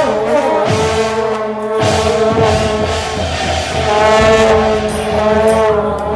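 Temple procession music: wind instruments hold long notes, shifting pitch a couple of times.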